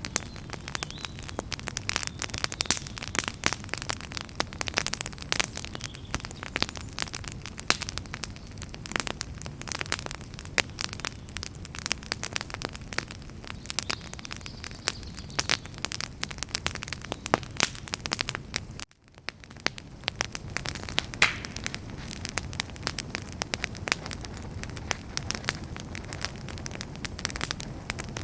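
Wood burning in a campfire, crackling and popping steadily with many sharp snaps over a low steady hiss. The sound drops out for a moment about two-thirds of the way through, then fades back in.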